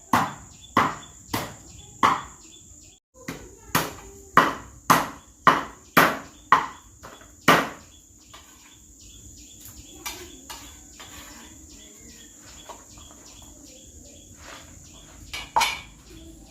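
Chopping strikes, a dozen or so at about two a second, then a few lighter scattered ones and one harder blow near the end. Crickets chirr steadily in the background.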